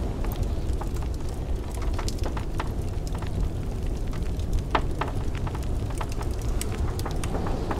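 Wood fire in a fireplace crackling, with frequent irregular sharp pops and snaps, over a steady low rumble of blizzard wind.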